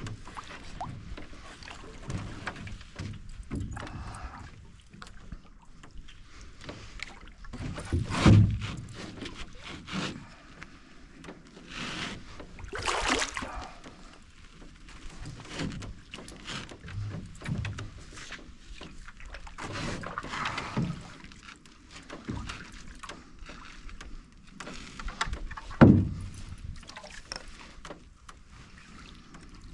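Canoe paddle strokes swishing and dripping in the water every few seconds. Two sharp thumps, about eight seconds in and near the end, are the loudest sounds, typical of the paddle or a shifting load knocking the canoe's hull.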